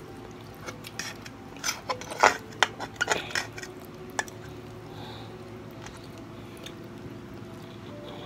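Eating sounds: a utensil clicking and scraping against a dish, a quick run of sharp clicks in the first four seconds or so.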